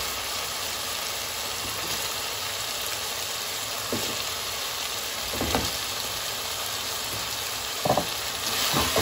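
Minced meat (keema) frying in a pot with a steady sizzle, while chunks of raw potato are dropped in by hand, making a few soft knocks about four and five and a half seconds in and a louder pair near the end.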